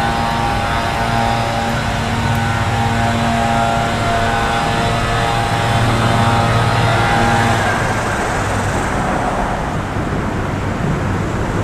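Road traffic crossing the busy overpass overhead: a steady engine hum with held tones for most of the time, giving way about two-thirds of the way through to a wash of passing-traffic noise.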